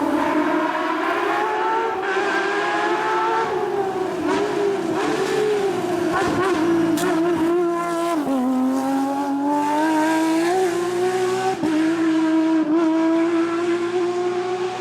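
Porsche 997 GT3 rally car's flat-six engine running hard at high revs, its pitch climbing and easing with the throttle, with a sudden drop in pitch about eight seconds in before it climbs again.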